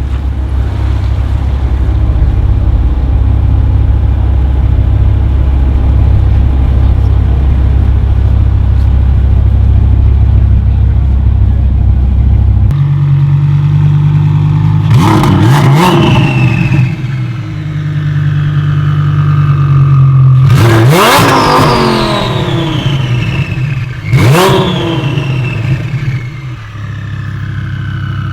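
A tuned car's engine idling with a deep, steady note, then after about twelve seconds a higher idle and three hard revs, each climbing sharply in pitch and falling back to idle.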